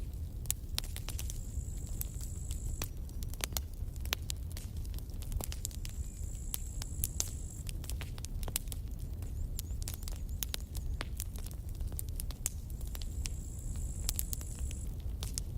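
Campfire burning, with frequent sharp crackles and pops over a steady low rumble. A thin, high tone comes and goes three times, each time for a second or two.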